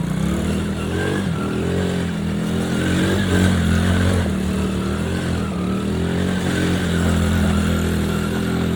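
Coolster 125cc ATV's small single-cylinder four-stroke engine running under way, its pitch rising and falling with the throttle.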